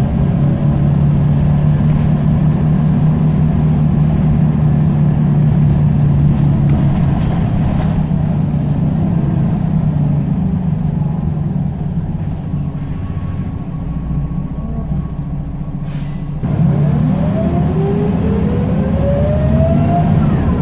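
Scania L94UB bus diesel engine running steadily, then easing off and quieter for a few seconds. A short air hiss comes about three-quarters of the way in, then the engine pulls again with a rising whine as the bus accelerates.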